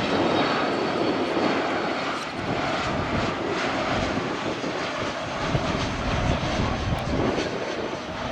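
Jet airliner engines: a loud, steady rush of noise.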